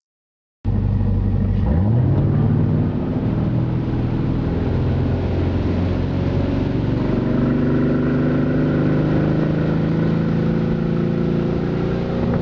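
Side exhaust of a Wakecraft ZR 6 ski boat with stainless free-flowing silencers, its engine cutting in after a short silence. It revs up about two seconds in, then holds a steady run whose pitch climbs slowly, as the boat gathers speed.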